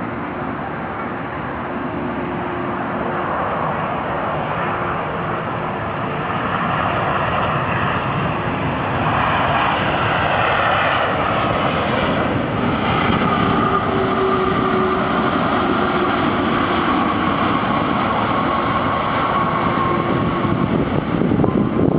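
Jet engines of a Boeing 767-300 on landing approach: a broad rushing noise with steady whining tones, growing louder as the airliner comes nearer, the whine sliding slightly lower in pitch in the second half.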